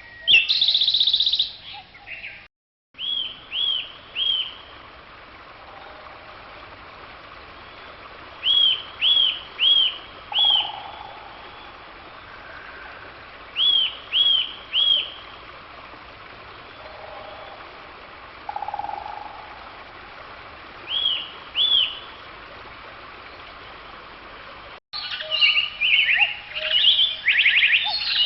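Wild bird song: a bird repeats short arched whistled notes in groups of three or four, with a few seconds between groups, over a steady background hiss. A busier trilled song briefly opens the clip and returns near the end, each time after an abrupt cut.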